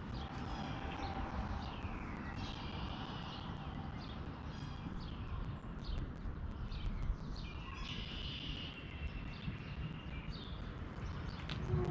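Several songbirds chirping and singing in short falling whistled notes, over a steady low background rumble.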